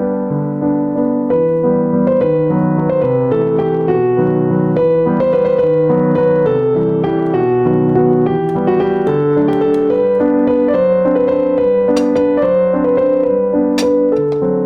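Background piano music: a melody of single notes moving over held lower notes, with a couple of faint clicks in the second half.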